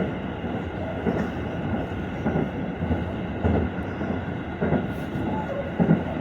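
Interior running noise of a Seibu 40000 series electric commuter train in motion. It is a steady rumble with a regular thump a little more than once a second, the wheels passing over rail joints.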